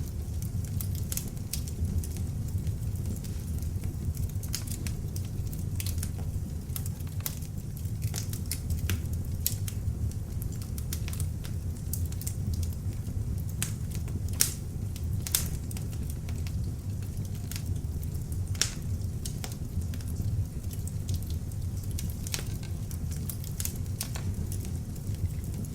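Beech-wood log fire burning in an open fireplace: a steady low rumble of flames under irregular crackles and snaps, with a few louder pops in the middle.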